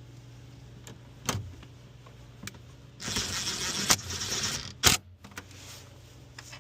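Metal tool clinks, then about a second and a half of fast whirring, ratcheting noise as a 10 mm socket tool drives down one of the last hold-down bolts of a hybrid battery pack, ending in a sharp metal clack. A steady low hum runs underneath.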